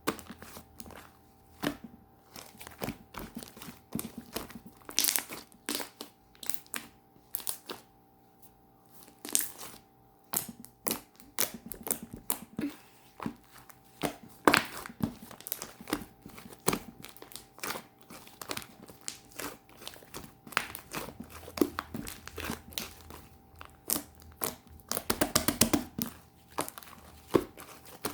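Cloud slime being stretched, squeezed and torn by hand, giving irregular crinkly crackles and pops, with a dense run of crackling near the end.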